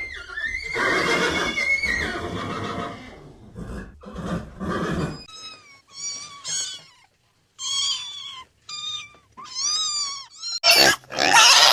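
A run of different animal calls one after another: a long, loud call in the first three seconds, then a shorter one, then a series of short, high, bending calls, and a loud harsh burst near the end.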